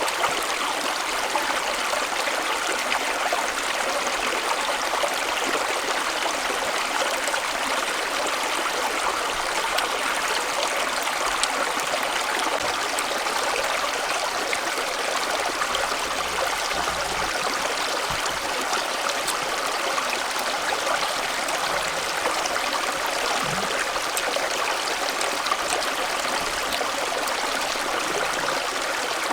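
Steady, even rush of flowing water, like a small stream running over rocks.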